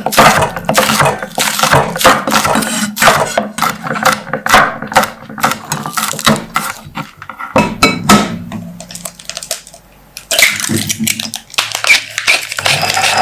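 Rapid, repeated clinks and taps of kitchen utensils against a bowl and dishes during food preparation. There is a quieter pause in the middle, then more taps, and a steady hiss builds near the end.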